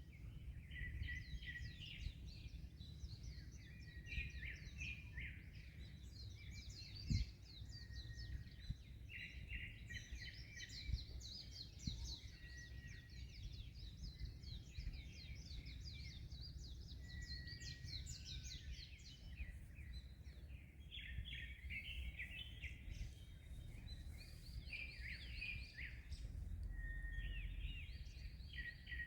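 Many small birds chirping and twittering in overlapping quick calls, over a steady low rumble of wind and waves. There is a brief thump about seven seconds in.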